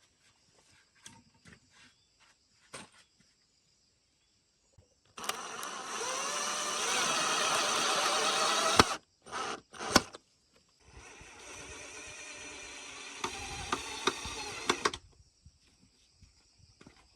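Electric power tool, drill-like, running in two bursts of a few seconds each, the first louder, with a few sharp knocks between them.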